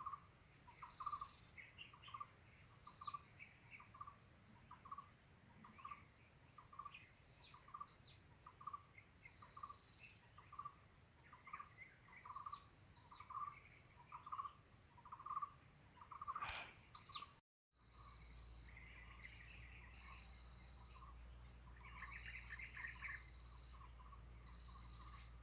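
Gelatik birds calling faintly: a short note repeated about one and a half times a second, with bursts of high chirps every few seconds. About two-thirds of the way through the sound breaks off for a moment and resumes over a low steady hum.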